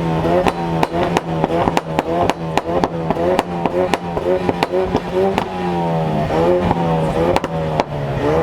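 A car engine revving in quick repeated blips, its pitch rising and breaking again and again, with many sharp cracks among them.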